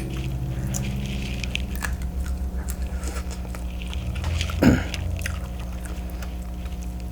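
Close-miked eating sounds: a person chewing and biting seafood-boil food, with small wet clicks throughout and one louder mouth sound about four and a half seconds in. A steady low hum runs underneath.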